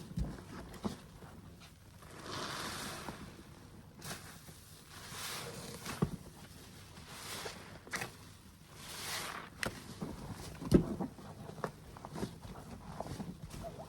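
A soapy sponge squeezed by hand: about four wet, hissing squelches a couple of seconds apart, with small crackles and taps between them and one sharper tap about three quarters of the way in.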